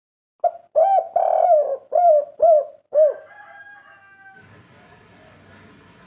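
Spotted dove (derkuku) cooing: a quick run of about six short, hooting coo notes that stops about three seconds in, leaving only a faint hiss.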